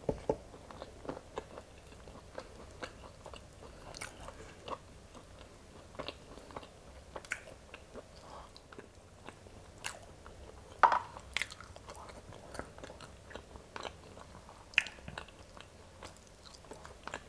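Close-up mouth sounds of someone chewing boiled velvet beans (Mucuna), dense and chewy, with scattered small wet clicks and smacks. A louder cluster comes about eleven seconds in.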